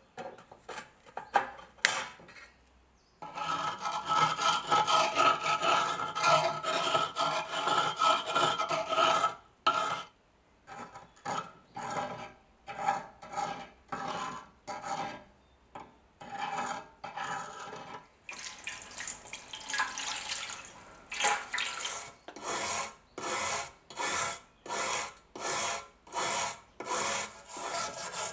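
Hand abrasion on the rusty steel of a bayonet. A few scattered scrapes come first, then several seconds of continuous scraping with a slight metallic ring, then steady back-and-forth strokes, a little over one a second.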